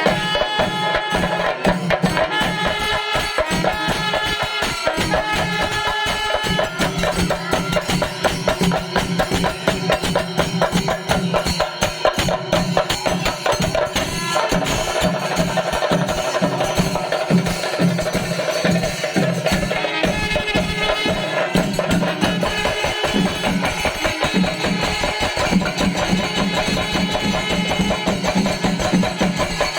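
Kerala temple percussion ensemble (chenda melam) playing: dense, rapid drumming with a held pitched tone that comes and goes in long stretches.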